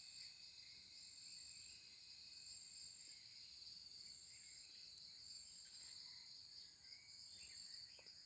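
Faint, steady high-pitched insect chirring, with a second, higher insect trill that starts and stops in regular pulses.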